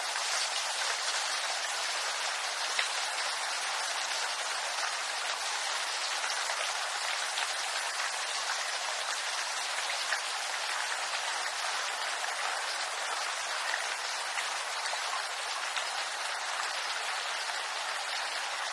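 Steady rain falling on bamboo leaves: an even patter with a few single louder drops now and then.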